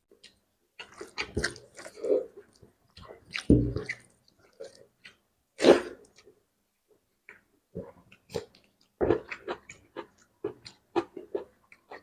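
A person chewing and smacking with an open mouth, eating spicy fish curry with gravy, in irregular wet clicks. There are two louder, fuller smacks about three and a half and six seconds in.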